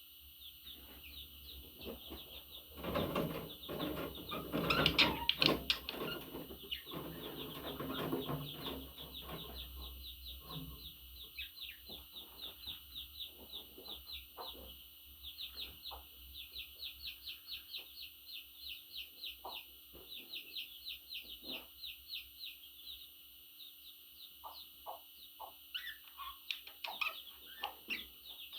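Budgerigars chirping in quick repeated chirps, with a louder, busier burst of calling a few seconds in.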